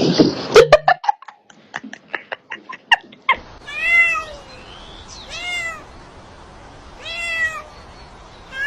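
Domestic cat meowing several times, each call rising then falling in pitch, about a second and a half apart. The meows are preceded by a run of sharp clicks or taps over the first three seconds.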